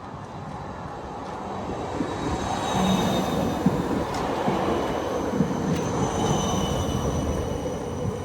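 A tram passing close by on steel rails: its running rumble builds over the first few seconds and then holds, with thin high wheel-squeal tones over it.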